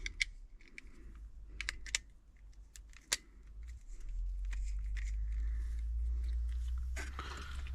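Light clicks and taps of hands and a screw on a replacement HVAC relay being fitted into a control panel, with several sharp ticks in the first three seconds. A low steady rumble comes up about four seconds in and runs under the rest.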